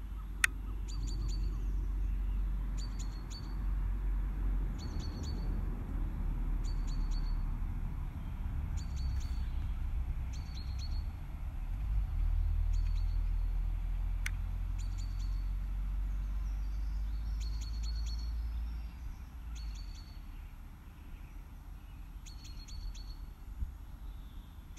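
A small bird repeating a short, high chirping call about every two seconds, over a low, fluctuating rumble. Two sharp clicks sound, one near the start and one about halfway through.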